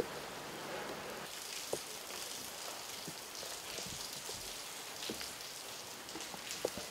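Steady rain falling on pavement, with a few sharp drip taps.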